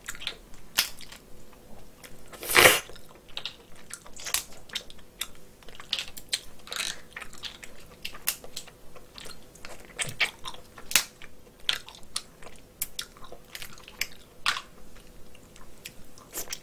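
Close-miked chewing and wet mouth sounds of someone eating cooked snow crab leg meat, with many small sharp clicks and one louder crunch about two and a half seconds in.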